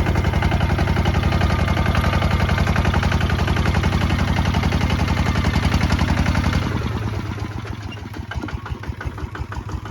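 Kubota ZT 155 DI walking tractor's single-cylinder diesel engine running hard with a fast, even beat of exhaust pulses. About seven seconds in it drops to a slower, quieter beat as it is throttled back toward idle.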